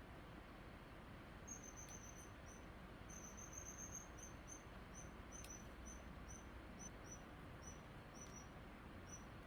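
Faint steady background hiss with a run of short, high-pitched chirps starting about a second and a half in, several a second at first, then more spaced out.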